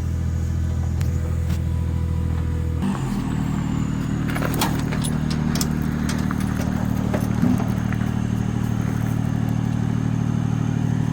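A car engine running steadily, heard with the vehicle's rattles. About three seconds in its note changes to a new steady pitch. A few seconds of light clattering follow.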